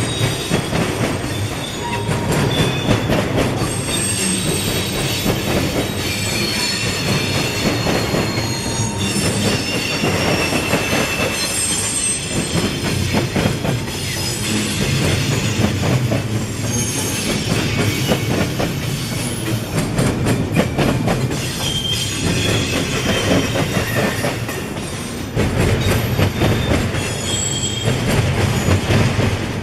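Freight train cars rolling past with steel wheels squealing in several high, shifting tones and clicking rapidly over rail joints, above a steady rumble.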